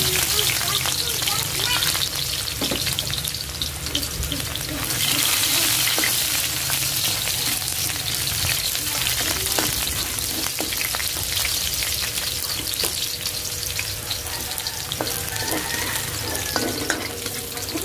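Chopped onion and garlic sizzling in hot oil in a metal wok, stirred with a spatula that scrapes and taps the pan now and then. The sizzle swells for a second or so about five seconds in.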